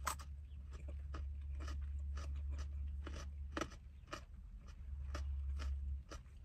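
A person chewing food close to the microphone: a run of short crunchy mouth clicks, about two to three a second, over a steady low hum.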